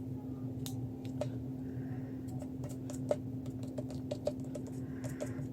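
Light, irregular clicks and taps of paper crafting materials being handled on a tabletop, coming thicker in the second half, over a steady low hum.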